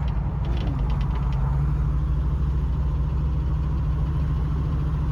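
Vehicle engine running with a steady low drone, a few faint ticks in the first second or so.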